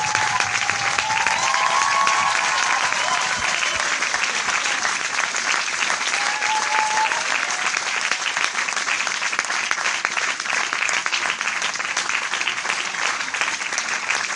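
Crowd applause: many people clapping in a dense, steady stream of claps at an even level throughout.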